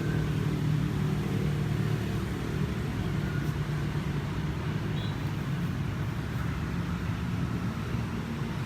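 Steady low mechanical hum, like a running engine or motor, holding an even pitch and easing slightly over the stretch.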